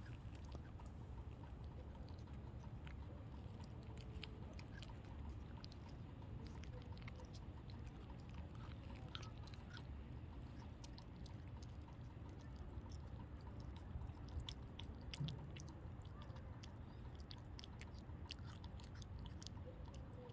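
Faint chewing: many small, irregular crisp crunches, busiest past the middle, over a low steady rumble.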